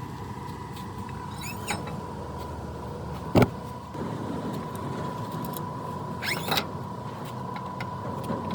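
Metal work sounds over a steady mechanical hum: a single sharp clank a little past a third of the way in, and two short bursts of high squeaky chirps, one early and one near three quarters of the way through.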